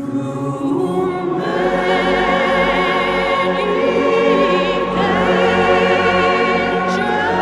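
Background music: a choir singing long held notes with vibrato over an accompaniment.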